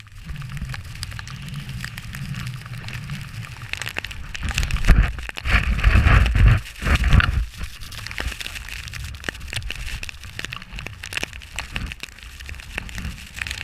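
Wind buffeting a GoPro's microphone during a snowboard run in a snowstorm, with the board scraping and chattering over snow; the rumble swells loudest from about four and a half to seven and a half seconds in.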